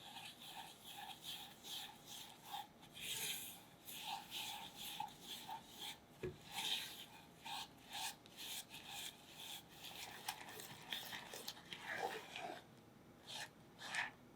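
Lemon rind being grated on a fine zester: repeated short rasping strokes.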